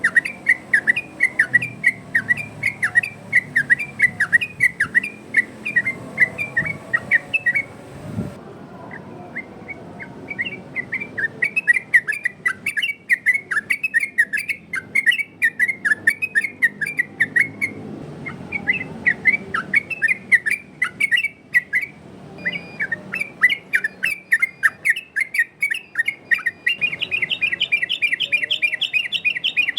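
Sooty-headed bulbul (trucukan) singing a rapid run of short, bending whistled notes, about two or three a second. It breaks off briefly about eight seconds in, and the notes turn faster and denser near the end.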